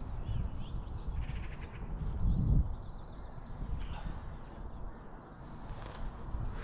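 Small birds chirping in short, scattered calls over a steady low rumble, with a brief louder low surge about two and a half seconds in.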